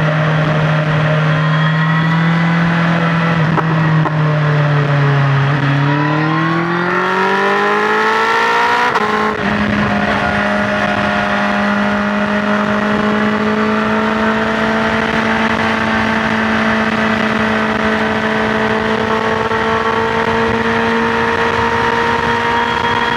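BMW S1000XR motorcycle's inline-four engine under way with wind rush. The engine note rises steadily for about three seconds as the bike accelerates. It breaks briefly at a gear change about nine seconds in, then holds a steady, slowly climbing note in the next gear.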